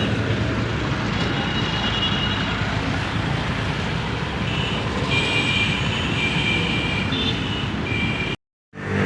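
Steady mechanical noise with faint high whining tones that come and go, broken by a sudden short silence near the end.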